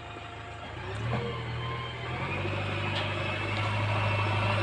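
Heavy diesel engine running. It picks up about a second in and then holds a steady, even speed, with a faint high whine above it.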